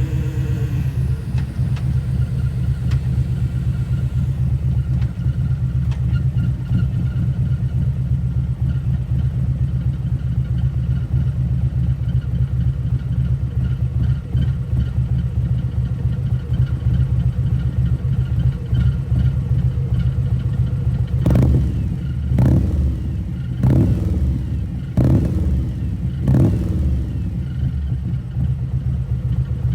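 Harley-Davidson CVO Road Glide's Milwaukee-Eight 117 V-twin, fitted with a T-man 216 cam and CFR slip-on mufflers, idling steadily through its exhaust. About two-thirds of the way through it is revved five times in quick succession, then settles back to idle.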